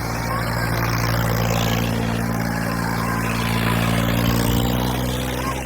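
Tractor diesel engine running steadily, a deep, even engine note that breaks off abruptly at the very end.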